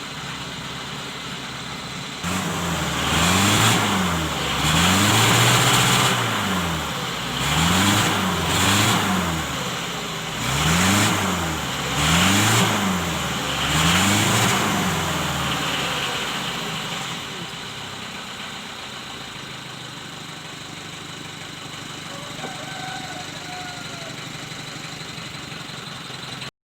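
Old Chevrolet car engine idling, then revved in about six quick blips that rise and fall in pitch, before settling back to a steady idle.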